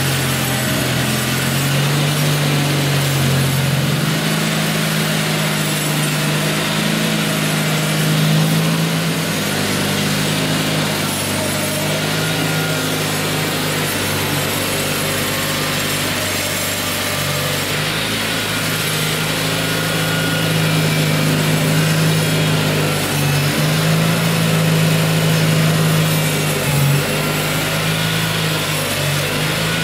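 Tractor engine running steadily under load while plowing snow, its pitch stepping up and down a little as the load changes.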